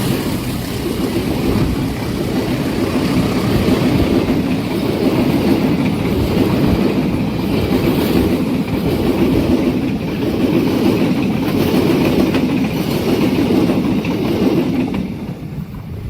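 A long train passing close by at speed, its wheels clattering in a repeating rhythm as the cars go over the rails. The sound falls off sharply near the end as the train passes.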